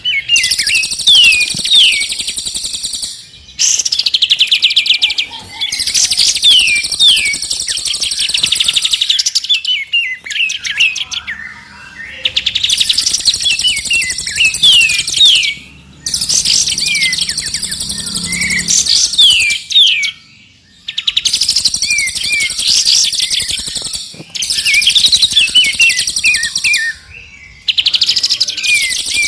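Recorded songbird song, a mix of three birds' songs: bursts of quick downslurred whistles and fast, high trills, each a few seconds long and broken by short gaps.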